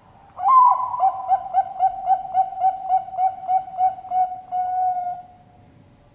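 Zebra dove (Bangkok perkutut) singing its full cooing song: a loud opening coo, then a rapid even series of short coos at about four a second, closing on a longer drawn-out note.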